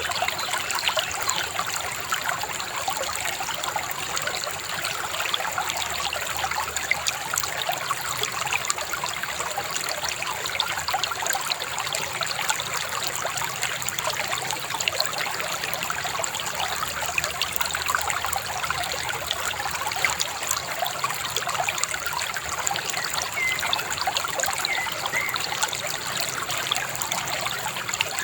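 Shallow river babbling and trickling steadily.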